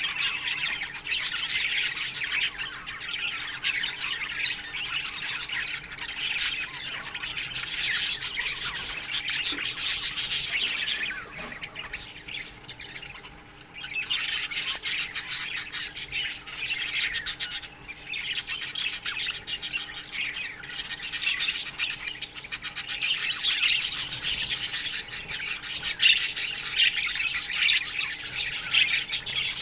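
A colony of budgerigars chirping and chattering together in an aviary: many overlapping chirps and squawks, with a brief lull about halfway through before the chatter swells again.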